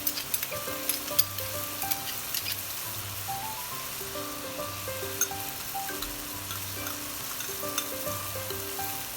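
Food sizzling as it fries in a pan, stirred with a utensil that clicks and scrapes against the pan now and then.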